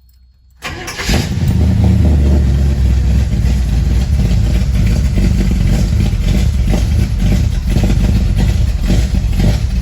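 1963 Chevrolet Impala's carbureted engine cold-starting after sitting several days: it fires up quickly, under a second in, then runs loudly at a slightly uneven idle that is not quite right.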